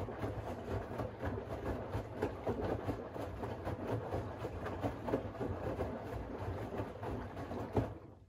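Siemens iQ700 front-loading washing machine's drum turning wet laundry through water, with a steady sloshing churn and small knocks. The drum stops suddenly near the end, just after a louder knock, as the wash rhythm pauses.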